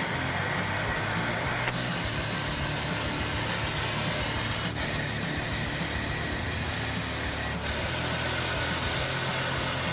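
Helicopter with a suspended multi-blade aerial saw running steadily: a constant engine drone with a high whine. The sound changes abruptly three times, about 2, 5 and 8 seconds in.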